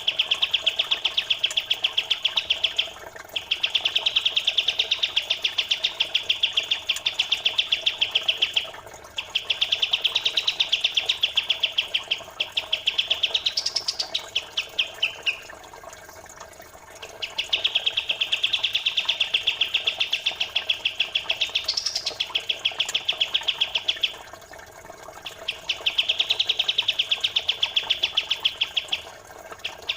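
A small songbird chattering in long, fast, tight runs of rapid repeated notes, each run several seconds long with short pauses between, some ending in a quick rising note. A faint trickle of running water lies beneath.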